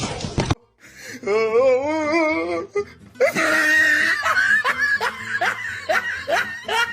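A wavering, held voice-like note, then a person laughing hard with quick repeated 'ha's, about three a second, for the last few seconds.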